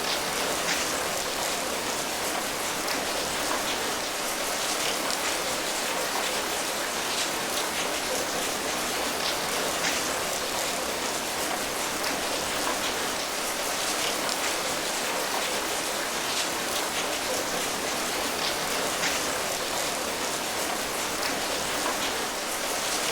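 Steady rain falling, an even hiss of many drops with faint individual drop ticks scattered through it.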